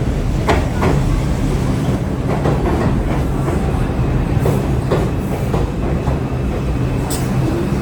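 A New York City Subway R62A train running along the track with a steady rumble. Its wheels clack over rail joints several times at uneven intervals.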